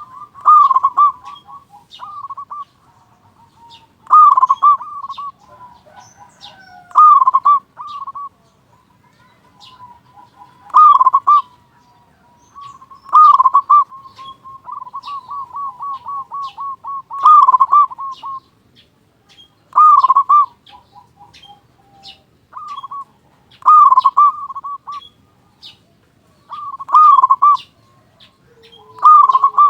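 Zebra dove (perkutut) singing its cooing song in loud repeated phrases every few seconds, with a long fast run of coo notes around the middle. Faint high chirps of other small birds are heard behind it.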